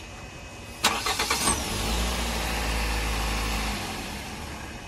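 Toyota Corolla petrol engine being started: a click and a brief burst of starter cranking about a second in, then the engine runs with a low hum for about two seconds before it drops away.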